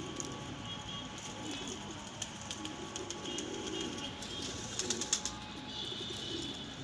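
Domestic pigeons cooing in low, wavering calls, with a few sharp clicks about five seconds in.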